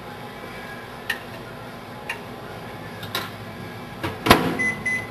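Microwave oven being set and shut: three short clicks and beeps from its keypad about a second apart, a loud clack of the door latching, then one steady beep of about a second as it starts.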